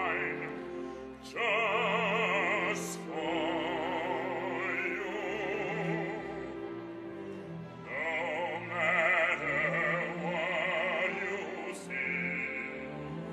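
Operatic singing with a wide vibrato over instrumental accompaniment, in several sung phrases, from a live opera performance.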